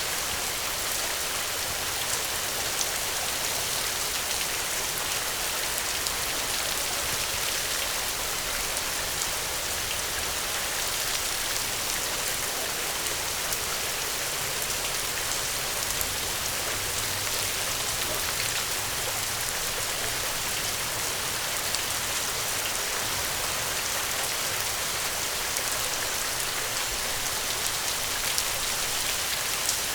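Steady rain: an even, unbroken hiss with many small scattered ticks of drops.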